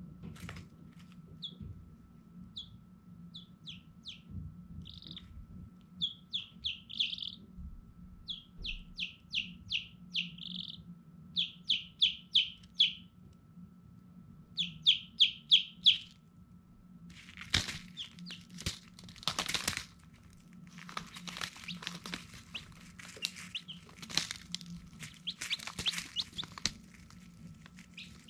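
Baby chicks peeping: runs of short, high, falling chirps in quick groups of three to six. After about seventeen seconds the peeping gives way mostly to scratching and rustling.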